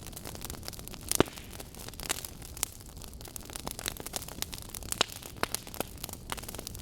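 Burning logs in a wood fire, crackling with irregular sharp pops over a soft steady hiss; one loud pop about a second in.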